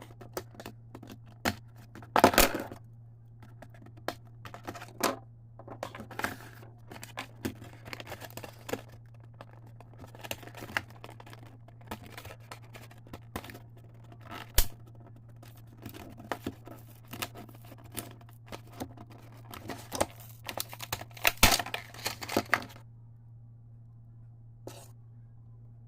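Packaging of a toy action-figure set being opened by hand: irregular rustling, tearing, scratching and clicking of cardboard and plastic in many short bursts, loudest about two seconds in and again a few seconds before the end. A steady low hum lies under it.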